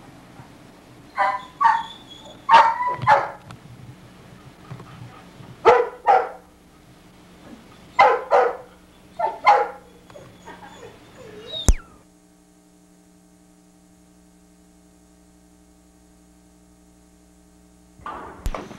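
A puppy barking in short, high yips, mostly in quick pairs, about ten in all. The barking stops about two-thirds of the way in, and a faint steady hum follows.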